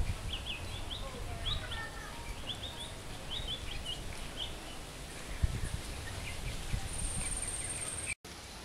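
Small birds chirping in quick, repeated short notes over a steady low outdoor rumble. Near the end a thin, high steady whine sounds for about a second, then the sound drops out for a moment.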